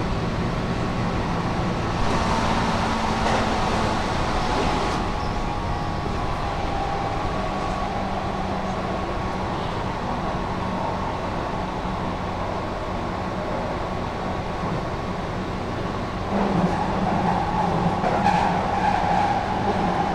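Keihan 8000 series electric train running at speed, heard from inside the car: a steady rumble of wheels on rail with a faint steady motor hum. It grows louder and rougher about 16 seconds in.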